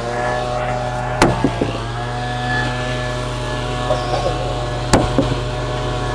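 Two sharp strikes, about one and a quarter and five seconds in, from breaking up old concrete, over a steady droning hum.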